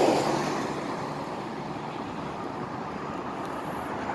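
Road traffic noise: a passing vehicle's sound easing off over the first second or so, then a steady traffic hum.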